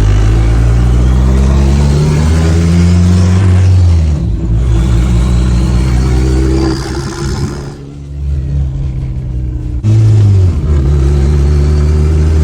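Turbocharged Honda K-series four-cylinder in a Toyota MR2 accelerating hard through the gears, its pitch climbing, with a short break for a shift about four seconds in and a longer lift between about eight and ten seconds before it pulls again. A faint high whistle rises with each pull.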